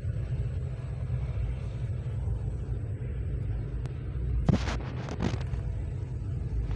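Steady low rumble of a moving train, with a few short, harsh noises about four and a half to five seconds in.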